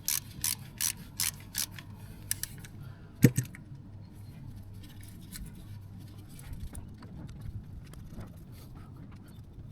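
Hand tools working on an engine: a run of sharp metallic clicks, about three a second, then a louder knock about three seconds in, followed by faint handling over a steady low hum.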